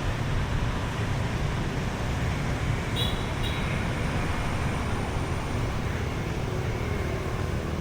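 Steady city street traffic noise with a low rumble of passing vehicles, and a short high-pitched sound with a click about three seconds in.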